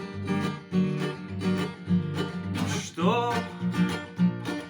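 Song accompaniment on a strummed guitar, keeping a steady rhythm between sung lines. About three seconds in, a man's voice comes back in, singing the next line of the song.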